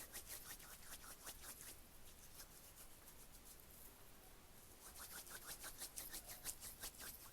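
Wet, gritty coffee grounds rubbed between the hands as an exfoliating scrub, giving a soft, fast scratching. It comes in two spells, with a pause of a couple of seconds in the middle.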